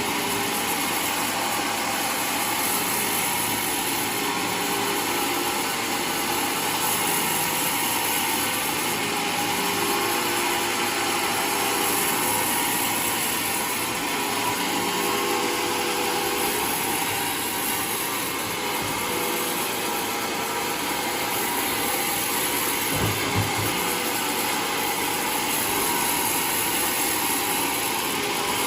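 Homemade sawmill running steadily as it saws a waru log into planks, with a couple of brief low knocks in the later part.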